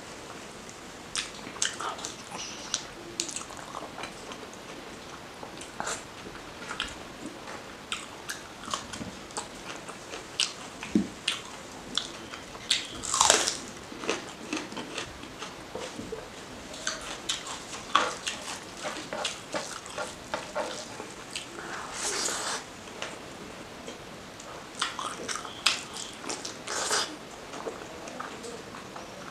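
Close-up eating sounds: chewing and biting on mutton fat curry and rice, many short wet clicks and smacks with a few louder crunchy bursts, the loudest about 13 seconds in and another about 22 seconds in.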